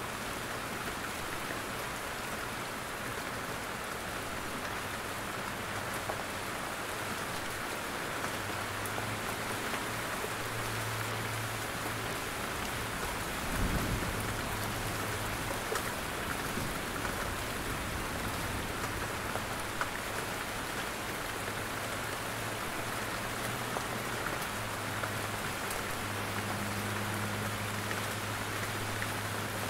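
Steady rain falling through forest trees, with drops pattering on leaves and surfaces. A brief low thud comes about halfway through.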